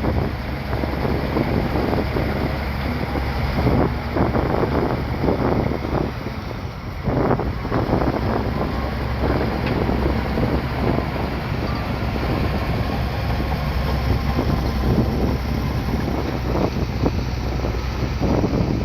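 Bulldozer's diesel engine running steadily at work, with a dense, irregular rough clatter over it.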